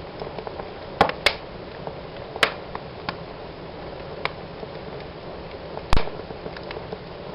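Wood fire burning in a fireplace: a steady low hiss and rustle of flames with sharp crackles and pops, the loudest about a second in, again at two and a half seconds, and near six seconds.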